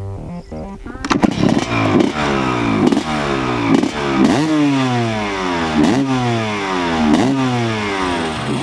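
Two-stroke Suzuki motocross bike's engine revving hard over and over. From about a second in, its pitch slides down and then snaps back up roughly every second, as the rider blips and eases the throttle around the track.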